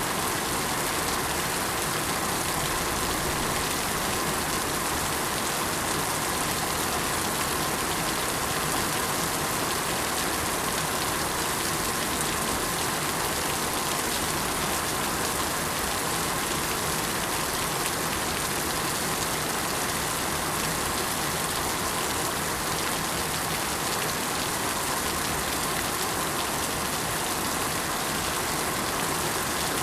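Steady rain falling on surfaces, an even hiss of drops without pause or change.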